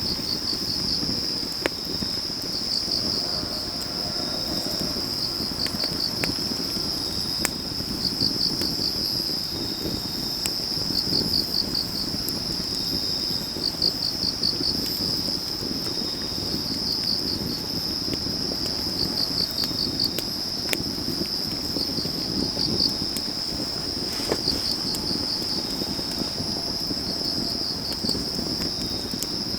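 Autumn night insects: a continuous high-pitched trill, with a cricket chirping in short quick pulse groups about every two to three seconds. A wood fire burning underneath, with occasional sharp crackles and pops.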